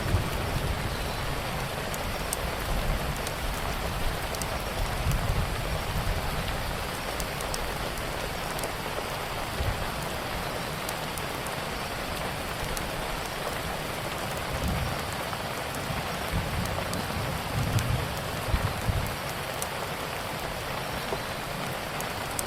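Steady heavy rain falling on a surface, with sharp crackles and pops from a wood fire scattered through it and a low rumble swelling now and then.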